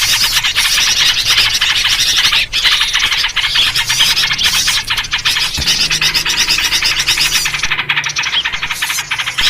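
Noisy, continuous chatter of small birds, dense and rapid, with yellow-vented bulbul (trucuk) calls in the mix. It is a bird-lure recording meant to draw small birds in.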